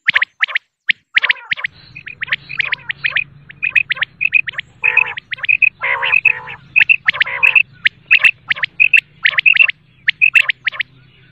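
Common quail calling: rapid, repeated short call notes, some high and clipped, others lower and raspy. A faint steady low hum joins about two seconds in.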